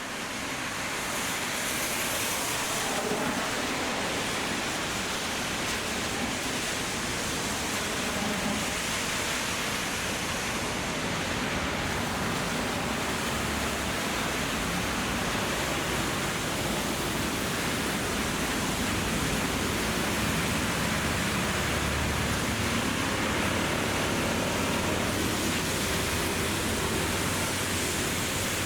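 Steady hiss of heavy rain, with low traffic noise from a wet road rising and falling underneath.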